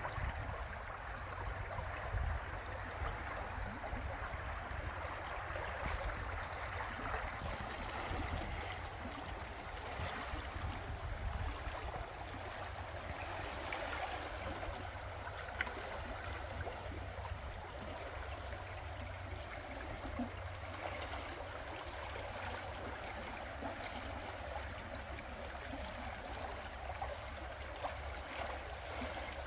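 River water flowing steadily, an even rushing with a low rumble underneath.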